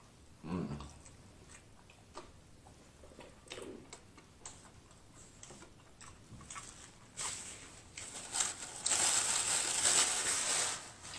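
Close-miked eating: a bite into a fried chicken sandwich about half a second in, then chewing with small wet clicks and smacks. A louder hiss-like mouth noise runs through the last few seconds.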